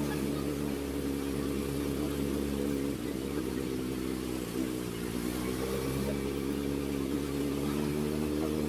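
Kawasaki ZX-4RR's 399 cc inline-four with an SC Project exhaust, running at fairly steady low revs while riding, its pitch dipping briefly about halfway through and then climbing again.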